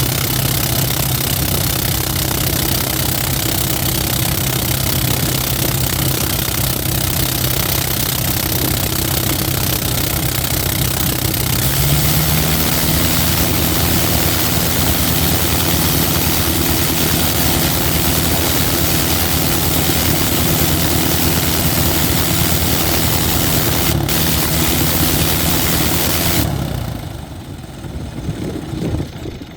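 Vintage aircraft rotary engine with its propeller running steadily, stepping up to a higher speed about twelve seconds in. Near the end the engine sound drops away suddenly.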